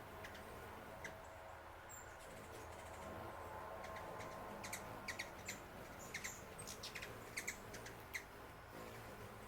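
Small birds chirping in short, sharp high notes, scattered irregularly and busiest in the second half, over a faint steady low hum.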